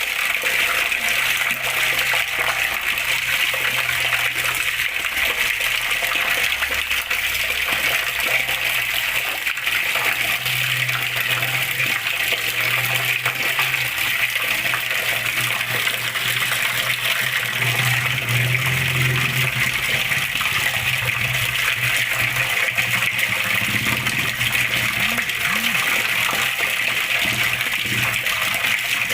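Flowing water rushing steadily, an even hiss-like wash that stays unchanged throughout.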